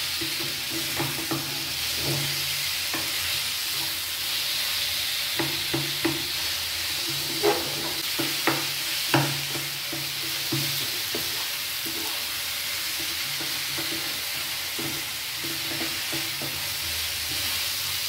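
Onion, tomato, chilli and mashed raw jackfruit sizzling in a non-stick frying pan while a wooden spatula stirs and presses them, with a steady frying hiss and scattered knocks of the spatula against the pan, loudest three in quick succession a little past the middle.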